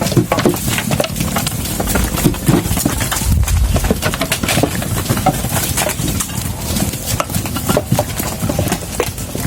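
Goats feeding close by: an irregular run of crunching clicks and leafy rustling as they pull at and chew the fodder.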